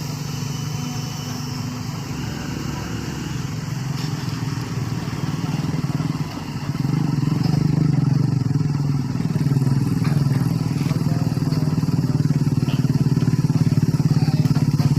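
A vehicle engine running steadily with a fast, even firing pulse. About seven seconds in it gets louder and its pitch shifts up and down, as with changes in engine speed.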